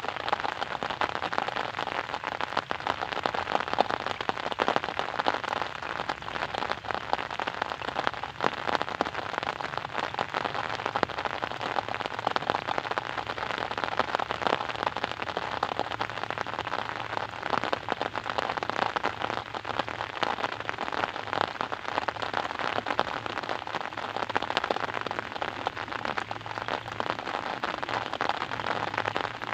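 Steady rain falling, a dense even patter of many drops with no let-up.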